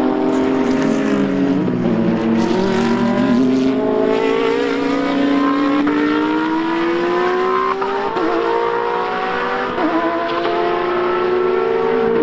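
Racing car engine at high revs. Its pitch falls in the first couple of seconds, then climbs steadily as the car accelerates, dipping briefly at about three gear changes.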